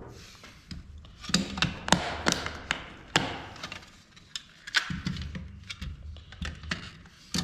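Plastic and metal parts of a dismantled dome security camera knocking and clicking against each other and a hard surface as they are handled: a run of sharp knocks, busiest between about one and three seconds in and again around five seconds in.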